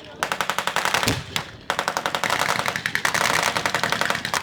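Machine guns firing blanks in long rapid bursts, three strings broken by short pauses. A low thump comes about a second in.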